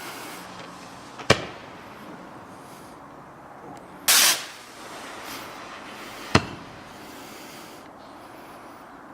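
Fireworks going off. A sharp bang about a second in, a short whooshing launch at about four seconds, and another bang some two seconds after that as the shot bursts.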